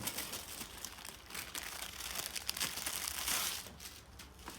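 Packaging being handled during an unboxing, crinkling and rustling with many quick crackles that ease off near the end.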